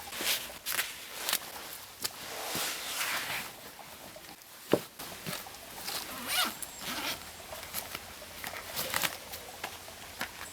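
A zipper being pulled open or shut in several runs, among clicks and rustling of handled gear.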